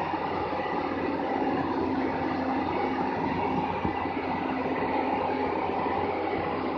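Heavy machinery running steadily, a continuous mechanical rumble with a few held tones in it, typical of an excavator's or transport truck's diesel engine.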